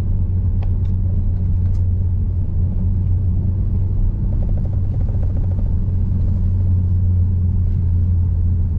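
A vehicle driving on a dirt road: a steady low rumble of engine and tyres, with a few sharp ticks in the first two seconds.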